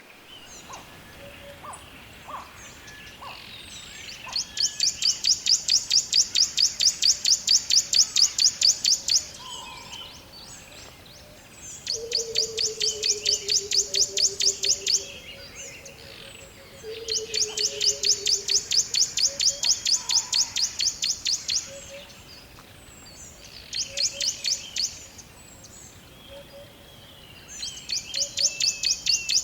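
Forest birdsong: a high, rapid trill repeated in bouts of a few seconds each with short gaps, over scattered fainter chirps. Twice, a lower whistle slides down in pitch alongside it.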